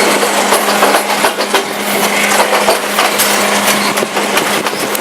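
Passenger train running on the rails, heard from inside a carriage: a loud rushing noise full of irregular rattles and clicks over a steady low hum.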